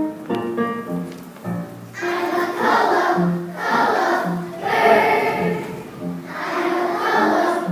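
Piano playing a song introduction, then from about two seconds in a children's choir singing in phrases over the piano accompaniment.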